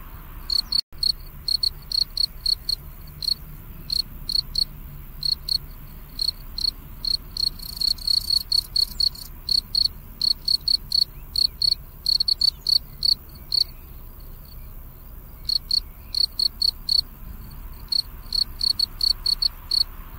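A cricket chirping: short, high-pitched chirps in quick succession, several a second, with a brief pause about two-thirds of the way through.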